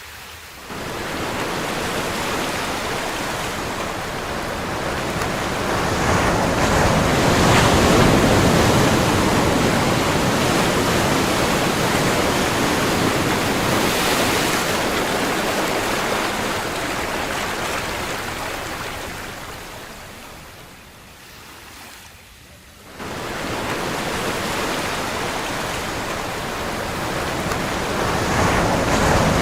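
Ocean surf: waves breaking and washing in a steady rushing hiss. One surge builds to its loudest about eight seconds in and ebbs away, and the next wave comes in suddenly about two-thirds of the way through.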